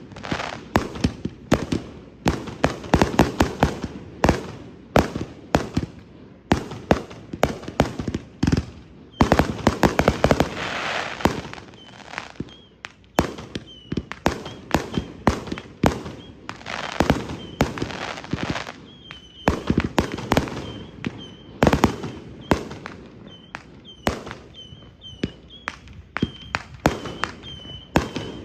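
Consumer firework cakes going off: a rapid run of sharp bangs and crackles, with a hissing stretch about a third of the way in and a thin high whistle running through the second half alongside the bangs.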